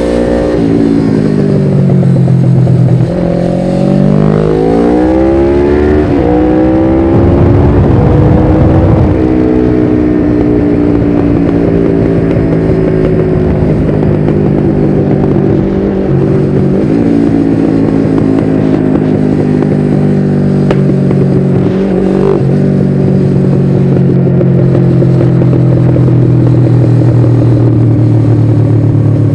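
1993 Suzuki GS500E's air-cooled parallel-twin engine through a Takkoni slip-on exhaust with its dB-killer fitted, heard while riding. The engine note drops as the bike slows, then climbs hard with a shift about six seconds in, and settles into a steady cruise with two brief dips in pitch later on.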